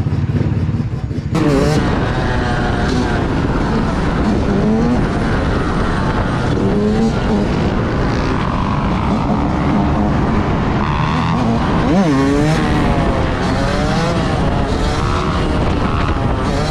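Several vehicle engines revving hard and repeatedly, their pitch swooping up and down over one another. A steady idle is heard before the revving starts about a second in.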